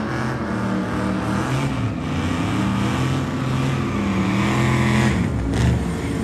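Drag-racing car engine revving, its pitch rising and falling in several sweeps, with a short sharp crack near the end.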